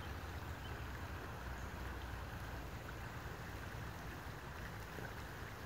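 Faint, steady outdoor background: the soft rush of slowly moving creek water, with a low rumble underneath.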